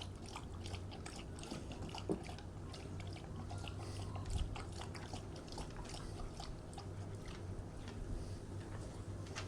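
A Tibetan Mastiff lapping water, a quick irregular run of small wet clicks.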